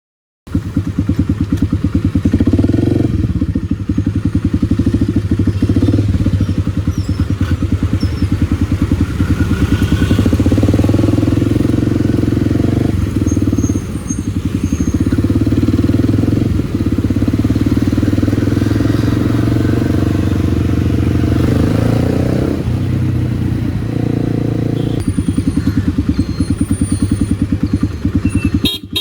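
Kawasaki D-Tracker 250's single-cylinder four-stroke engine running under way through an aftermarket White Brothers exhaust, its note easing off briefly a couple of times as the throttle changes.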